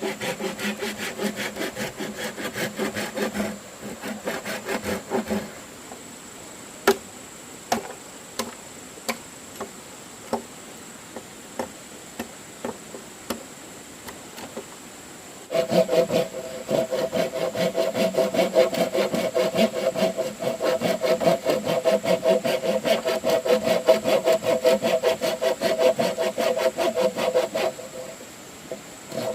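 A saw cutting through bamboo in quick back-and-forth strokes, the hollow bamboo ringing under the blade. The sawing stops after about five seconds and there are scattered single knocks for about ten seconds, then a long steady spell of sawing starts about halfway through and stops shortly before the end.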